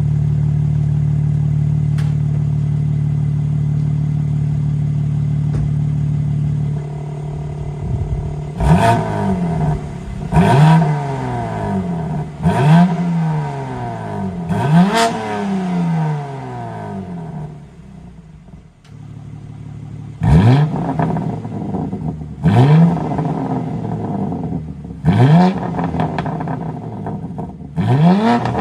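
BMW M3 Competition (G80) twin-turbo straight-six, running through an equal-length mid pipe with its exhaust valves held fully open, idling steadily, then blipped about eight times. Each rev rises sharply and falls back to idle, with a short lull before the last four.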